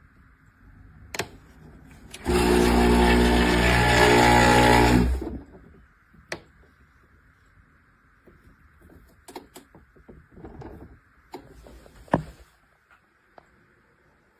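CHULUX Slim espresso machine's 20-bar pump running with a steady buzzing hum for about three seconds, then cutting off. Light clicks and knocks come before and after it.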